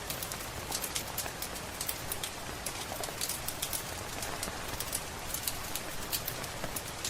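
Steady rain hiss mixed with many sharp crackles and pops from a wood fire in a fireplace, several a second.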